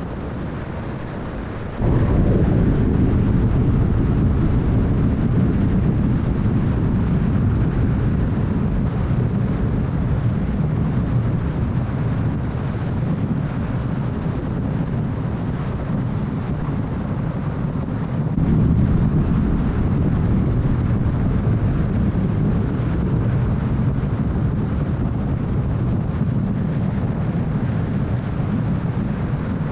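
Car driving on a freeway: a steady low rumble of road and wind noise that jumps suddenly louder about two seconds in and swells again a little past halfway.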